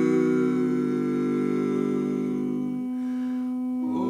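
Barbershop quartet singing a cappella, holding a sustained chord. About three seconds in, the other parts drop away and a single voice holds its note alone. The other parts slide back in near the end.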